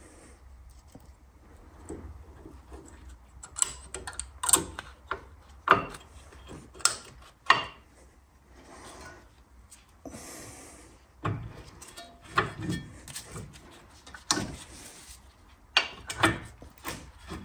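Brake caliper parts and hand tools being handled as the brake is reassembled: a series of irregular metal clicks and knocks, with a short hiss about ten seconds in.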